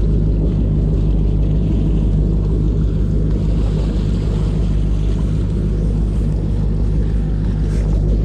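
Motorboat engine running steadily, a deep even drone.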